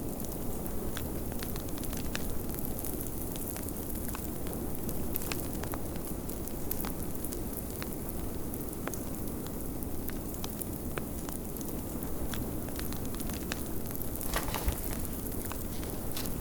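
Wood fire in a fireplace crackling, with many irregular sharp pops and snaps over a steady low rumble of snowstorm wind.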